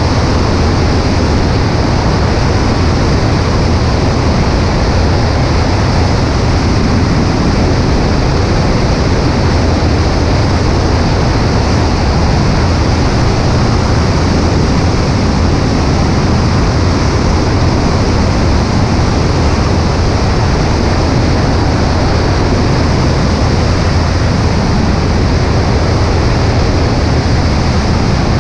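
Steady, loud rush of wind over a wing-mounted camera, with the drone of a Cessna 140A's engine in cruise flight underneath.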